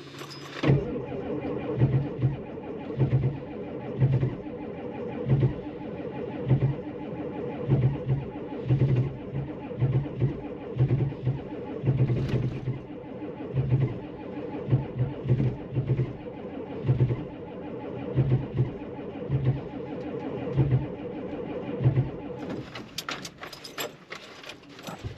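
1992 Ford F-250's 7.3L IDI diesel being cranked by the starter in deep cold. It turns over slowly, about one heave a second, and never fires: 15W-40 oil too thick for −27°C and weakening batteries. Near the end the cranking stops and gives way to a run of sharp clicks.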